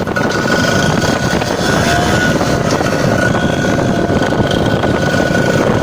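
Kawasaki Ninja R two-stroke engine running hard and steady through a loud aftermarket racing exhaust.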